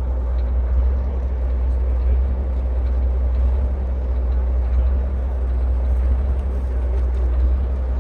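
A diesel engine running steadily, its sound heavy and low-pitched, with no change in speed.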